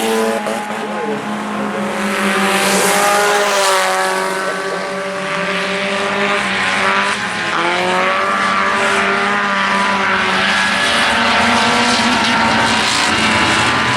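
A pack of IMCA Sport Compact race cars running at racing speed, several four-cylinder engines at high revs overlapping, their pitches rising and falling a little as the cars go around.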